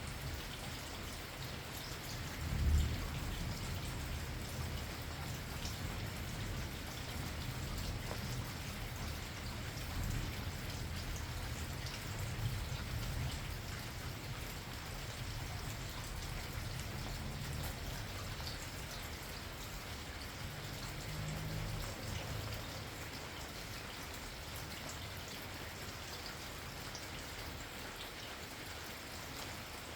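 Steady rain, with single drops ticking close by. Low thunder rumbles under it, loudest about three seconds in, then rolls on and fades out after about twenty seconds.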